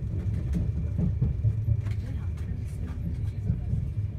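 Steady low rumble inside a moving Enterprise passenger coach running at speed, with scattered light clicks and rattles.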